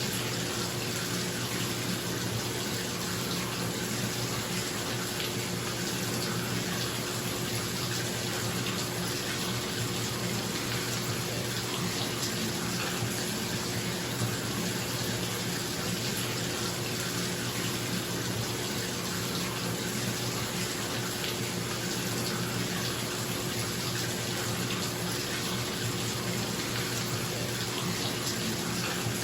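Bathtub tap running, water pouring steadily into the tub, with a bathroom exhaust fan's steady hum underneath.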